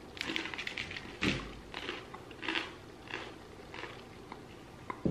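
A person chewing a crisp cracker, with a crackly run of crunching in the first second and then single crunches about every half second.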